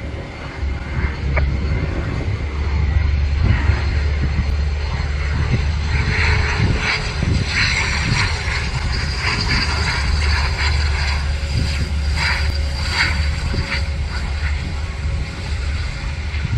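Airliner engines passing close by: the noise swells through the middle with steady high whining tones, then eases off, over a constant low rumble.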